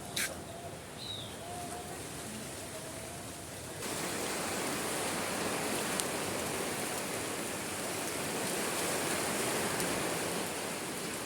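Heavy rain pouring in a dense, steady hiss that starts abruptly about four seconds in. Before it, a quieter outdoor background with a few short chirps and a single click.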